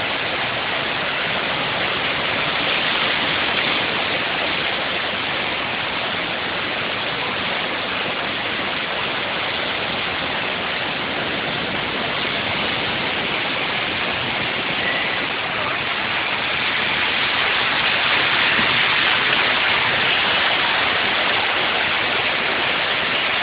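Steady rush of heavy rain and running water, growing a little louder about two-thirds of the way through.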